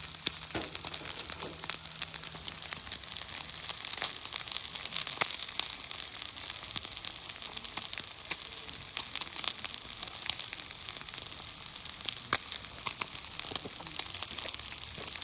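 Meat frying on a 6 mm thick steel griddle: a steady sizzling hiss with frequent small crackles and pops of spitting fat.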